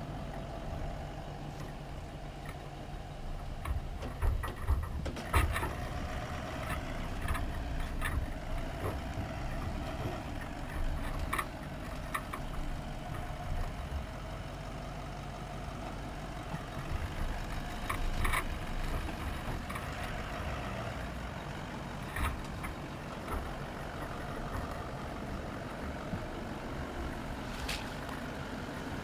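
Toyota LandCruiser towing a boat trailer at a crawl over a rough, rutted track: a steady engine hum and low rumble, with sharp knocks every few seconds as the vehicle and trailer jolt over the ruts.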